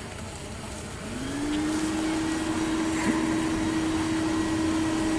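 A vacuum motor starts about a second in, its pitch rising briefly as it spins up, then runs steadily with a single held tone: a bee vacuum drawing swarming honey bees out of the chimney into a bucket.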